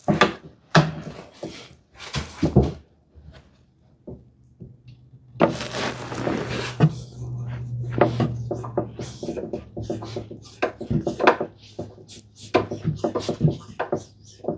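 A screw being driven by hand through a brass hinge into wood, heard as a dense run of irregular clicks and scrapes, after a few sharp handling knocks at the start. A steady low hum runs underneath from about four seconds in.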